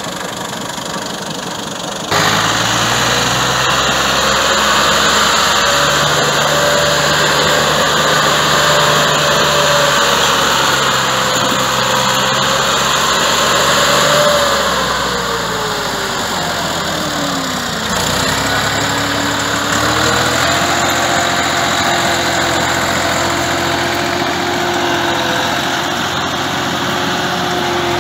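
Massey Ferguson 260 tractor's three-cylinder diesel engine running under load. It gets louder suddenly about two seconds in, its pitch sags and falls steeply about two-thirds of the way through, then it runs steadily again.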